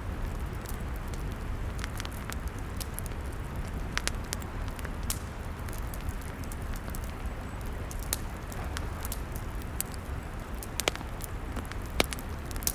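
Log fire burning, with a steady low rumble and hiss and scattered sharp crackles and pops, a few louder pops near the end.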